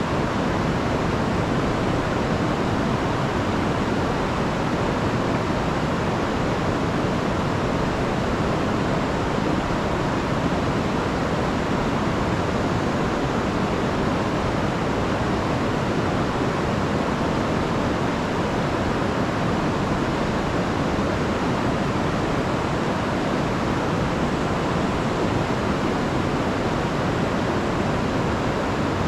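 A rain-swollen river rushing in a steady, full roar of water.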